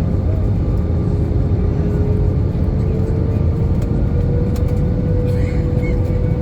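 Airbus A320 cabin noise during descent: a steady, loud rumble of airflow and engines, with one engine tone that rises slightly in pitch.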